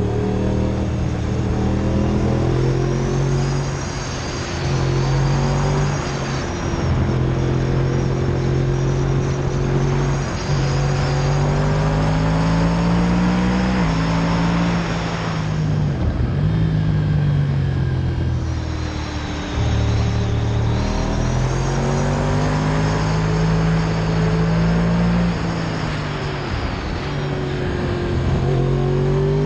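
Motorcycle engine under way on the road, its pitch climbing with speed and dropping in steps as it shifts gear, with a dip in the middle where it eases off, over steady wind and road noise.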